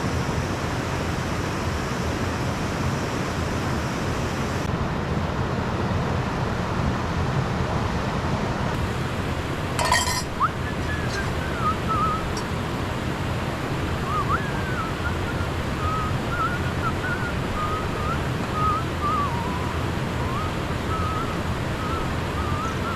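Steady rushing of Aber Falls, a waterfall, with wind. A sharp knock comes about ten seconds in, and after it a thin, wavering high tone comes and goes over the rush of water.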